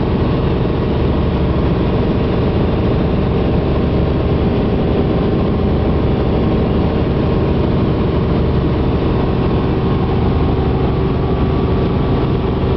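Helicopter running steadily, its engine tone and fast low rotor beat loud and unchanging.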